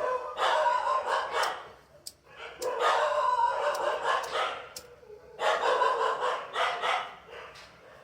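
Animal calls in three bouts of about two seconds each, with short gaps between.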